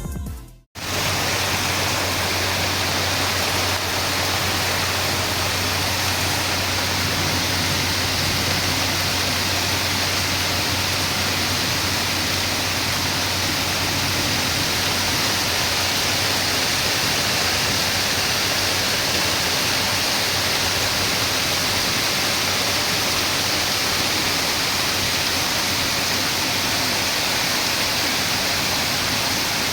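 Heavy rain pouring steadily, a dense even hiss, with a steady low hum underneath.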